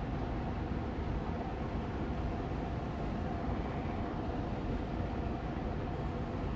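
Austin Air Allergy Machine air purifier fan running steadily on medium speed: an even rush of air with a faint steady hum.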